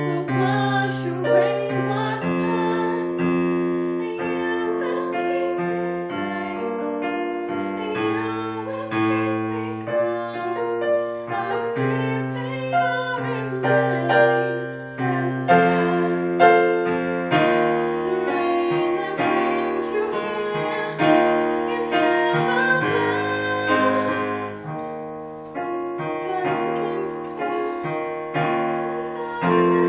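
Piano accompaniment to a slow ballad, playing held chords that change every second or two, with a voice singing over it at times.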